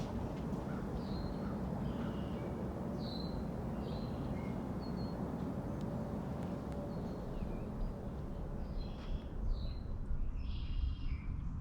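Wild songbirds giving short, high chirps here and there, with a harsher, raspier call near the end, over a steady low rumble.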